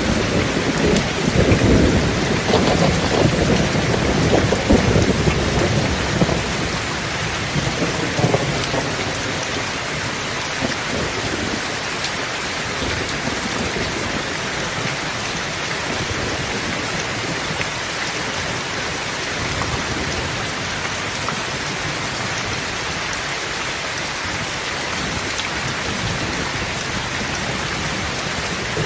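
Thunderstorm: steady heavy rain hiss throughout, with thunder rumbling low in the first several seconds before dying away.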